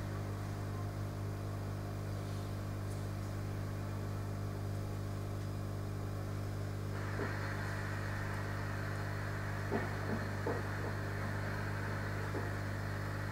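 Steady electrical mains hum. About seven seconds in a steady hiss joins it, and a few faint clicks follow.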